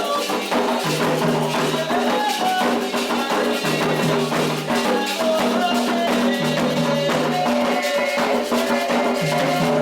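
Candomblé toque for Oxossi and Ossaim: steady ritual drumming on hand drums with shaken rattles and voices singing a chant.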